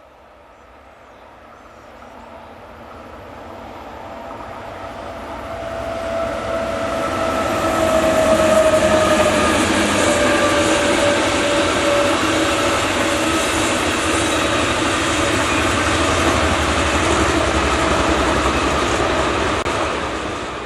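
A train approaching on the main line, growing steadily louder for about eight seconds, then passing close by at full loudness; a tone from the locomotive dips slightly in pitch as it goes past.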